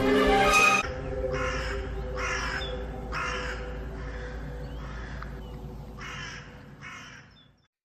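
A crow cawing repeatedly, about once a second, over a low steady drone, after a brief loud burst at the start; everything fades out just before the end.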